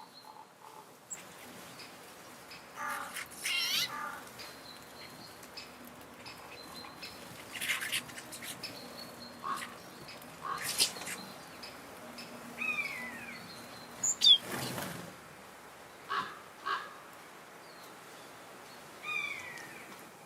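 Wild birds calling at intervals: short harsh calls mixed with chirps and a few thin falling whistled notes, the loudest call coming a little past the middle.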